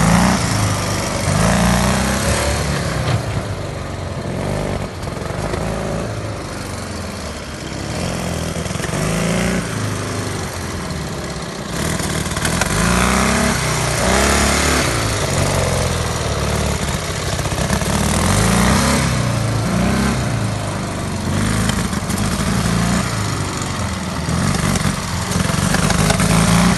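Motorcycle flat-twin engine of a homemade Dnepr-based trike running, its revs rising and falling over and over.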